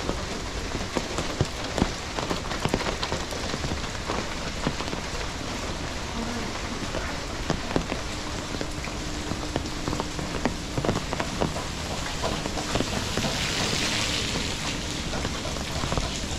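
Steady rain falling on a hard surface, with many individual drops striking close by as sharp ticks. Near the end a hiss swells and fades.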